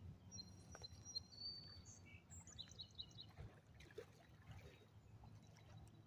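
Near silence with faint, high bird chirps and whistles during the first three seconds, over a low background rumble.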